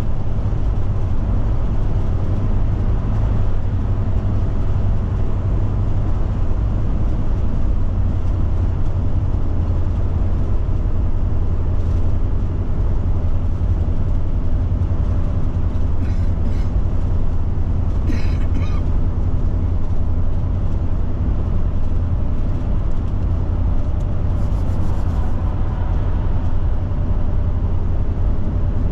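Steady low drone of a Forest River Forester Class C motorhome's engine and tyres on the highway, heard inside the cab, with a few brief clicks about halfway through and again later.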